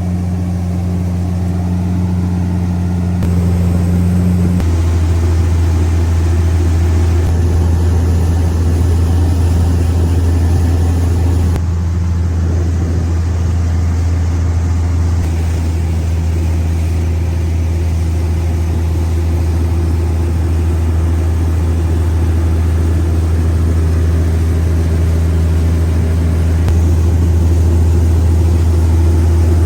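Speedboat engine running steadily under way, a loud low drone; about four and a half seconds in, one higher hum drops out and the drone gets slightly louder.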